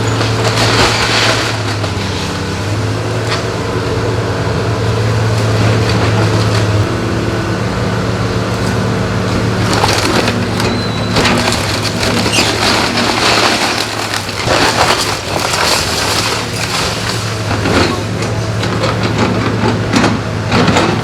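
A wood-frame house being torn down by a heavy machine: timber cracking and splintering and debris crashing over the steady hum of the machine's engine. The crashing comes in a few hits about a second in and grows much busier from about ten seconds in.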